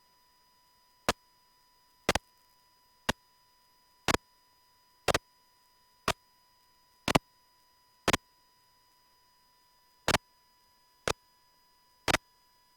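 Sharp clicks at an even pace of about one a second, one skipped near the middle, over a faint steady high tone.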